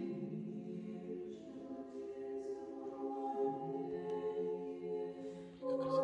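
A nuns' choir singing Orthodox chant a cappella, holding long notes that shift slowly in pitch. A louder new chord comes in near the end.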